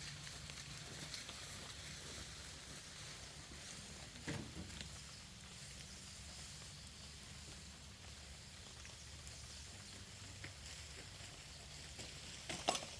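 Faint rustling of tall grass being cut by hand with a sickle, with a short swish about four seconds in and a quick run of sharp snips near the end.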